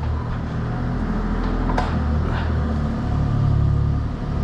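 A machine's steady low hum, with a single sharp click about two seconds in.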